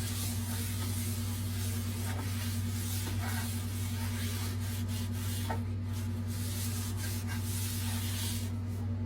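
A steady low hum with a second, higher hum tone above it, over a faint hiss and a few light clicks and rustles.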